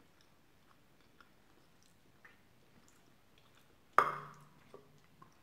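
Close-up chewing of a mouthful of soft chicken tikka masala and rice: faint wet mouth clicks and smacks. About four seconds in comes a sudden louder sound with a brief low hum after it.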